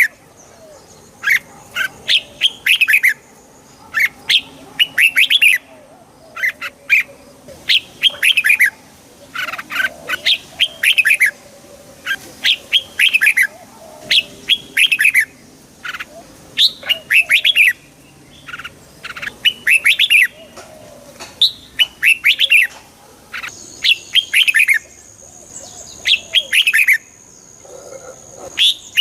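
Red-whiskered bulbul singing: short, bright phrases of quick falling notes, repeated about once a second with brief pauses between them. A faint steady high whine sits underneath over the last few seconds.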